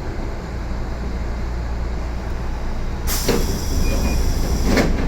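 Inside a Yoro Railway 7700 series (ex-Tokyu 7700) electric train car: a low steady rumble, then about three seconds in a sudden loud hiss of compressed air, followed by short hisses near the end.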